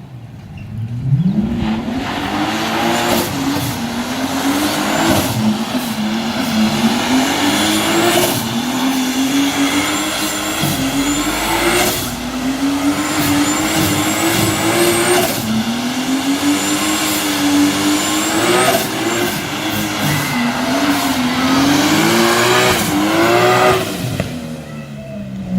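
Turbocharged BMW E30 doing a burnout: the engine is held at high revs that rise and dip repeatedly, over the hiss and squeal of spinning tyres. Near the end the revs fall away.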